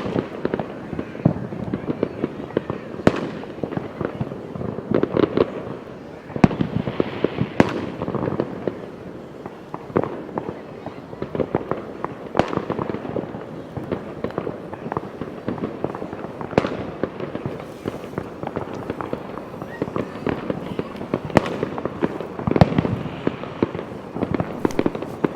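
Fireworks going off one after another: many sharp bangs and crackles, some loud, over a steady rumble of more distant bursts.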